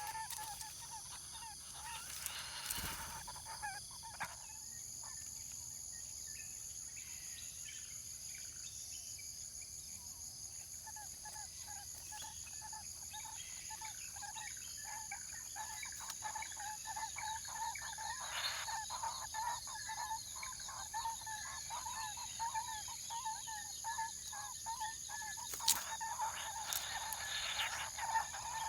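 Birds calling in runs of short, quickly repeated notes, busier in the second half, with a few sharp clicks, over a steady high-pitched hum.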